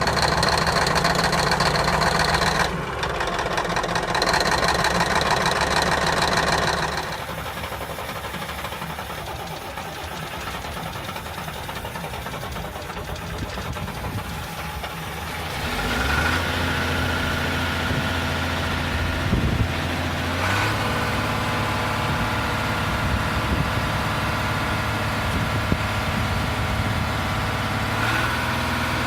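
Diesel engines cold starting and idling: one runs loud, then drops to a quieter stretch, and about halfway through another engine fires up and settles into a steady idle.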